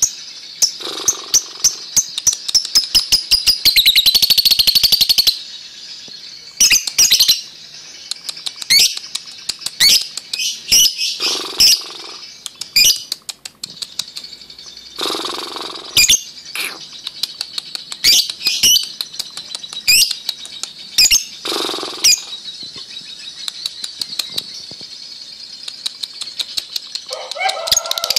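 Lovebird singing its ngekek song: shrill, sharp chirps in fast runs, rising to a dense rapid chatter about four seconds in and again at the very end. A few short rustling bursts are heard between the runs.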